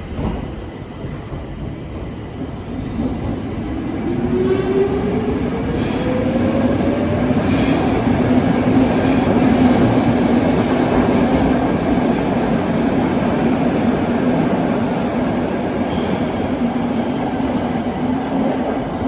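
Stockholm metro train pulling away and accelerating: a motor whine rises in pitch from about three seconds in while the running noise grows louder, over a steady hum.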